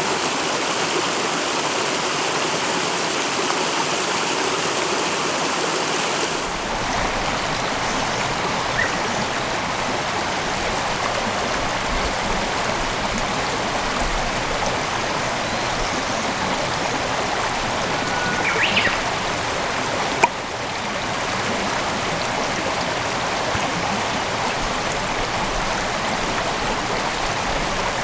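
Mountain headwater stream flowing, a steady rush of water. The water sound changes abruptly about six seconds in and again, after a click, about twenty seconds in, as the recording cuts to another stretch of stream.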